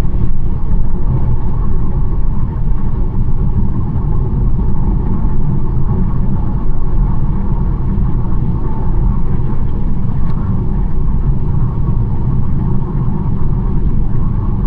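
BMW 1 Series driving steadily along a country road: a constant low rumble of road and tyre noise with the engine underneath.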